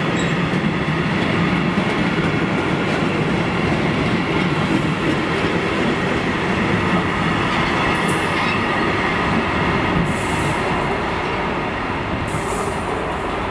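Freight train of covered sliding-wall wagons rolling past close by: a steady rumble and clatter of steel wheels on the rails, with a faint high wheel squeal. It eases slightly near the end.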